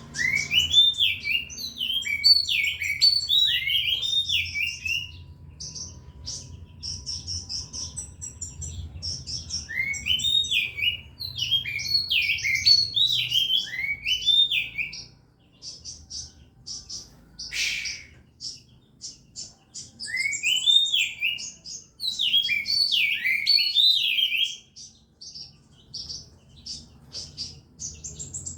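Oriental magpie-robin (kacer) in full song: three long bursts, about ten seconds apart, of loud swooping whistled notes that rise and fall, with shorter, higher chirps between them. There is a faint low hum underneath.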